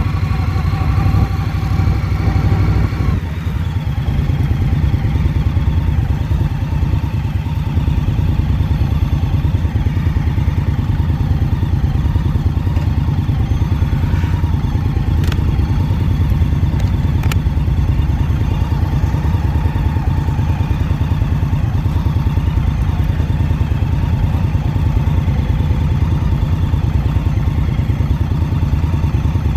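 Motorcycle V-twin engine running steadily while under way, a dense low pulsing with no let-up. A higher steady tone sits over it for the first few seconds, then drops away.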